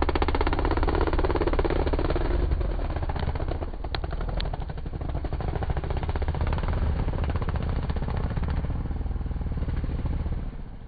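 Motocross dirt bike engine running hard, its firing pulses rapid and rasping; loudest in the first few seconds, dipping briefly, then picking up again before fading near the end.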